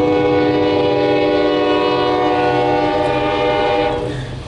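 Diesel locomotive's multi-chime air horn held as one long chord, cutting off about four seconds in, over the low rumble of the train.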